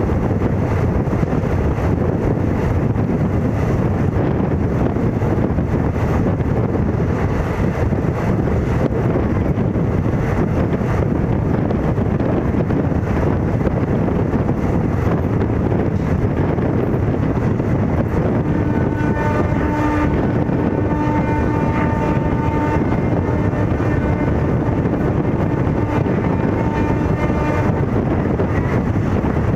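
Steady rushing noise of a train on the move, with wind buffeting the microphone. A steady pitched tone sounds over it for about nine seconds in the second half.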